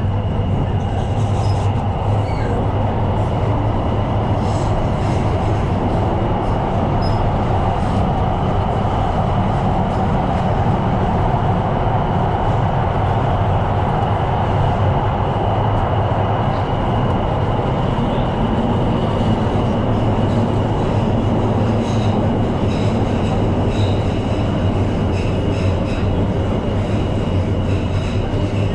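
Tyne & Wear Metro train running at steady speed, heard from on board: a constant rumble of wheels on rail with a low hum and a thin, steady high whine, and a few faint ticks.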